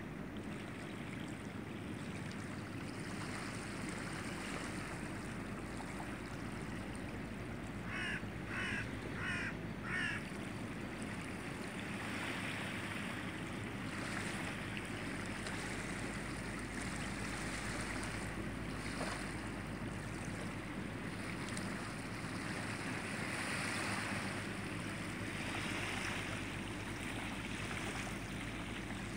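A bird gives four short, harsh calls in quick succession about eight seconds in, over a steady low hum and faint background rustle.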